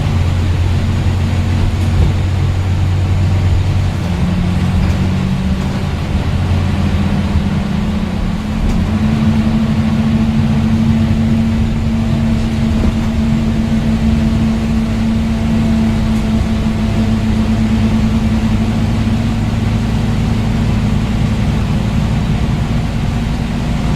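Scania N230UD bus's five-cylinder diesel engine running under way. Its pitch steps up about four seconds in and again about eight seconds in, then holds steady.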